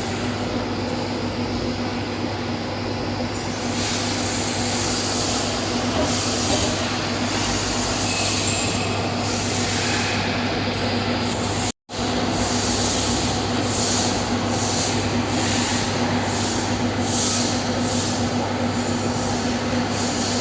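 Automatic seam welder's arc burning steadily along a stainless steel longitudinal seam: a continuous hiss and buzz over a steady machine hum. It cuts out for a split second a little past halfway.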